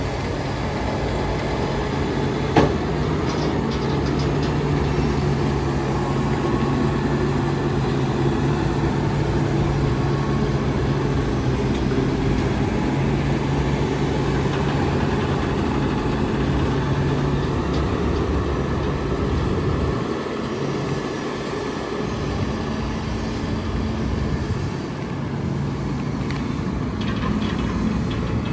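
Heavy truck's diesel engine running steadily, with a single sharp knock about two and a half seconds in and a brief dip in the engine note later on.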